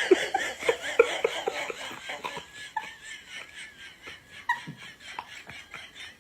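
A person laughing in quick repeated bursts that thin out and trail off.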